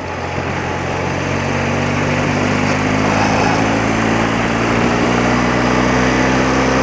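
A 30-year-old BMW motorcycle's engine running on the move with rushing noise over it. Its steady note grows louder over the first two seconds, then holds level.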